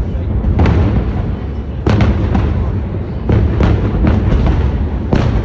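Fireworks display: a string of about seven aerial shell bursts going off roughly a second apart, each a sharp bang with a rumbling tail, over a continuous low rumble.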